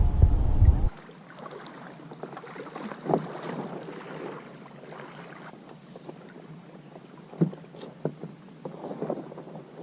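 Wind rumbling on the microphone for about the first second, then stopping abruptly at a cut. After it, a small fluted-plastic kayak on calm water, with soft water lapping and a few short splashes and knocks.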